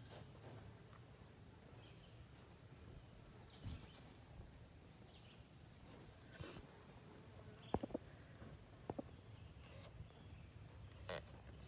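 Faint outdoor ambience: a bird repeats one short high chirp about every second and a quarter, with a few sharp clicks near the middle.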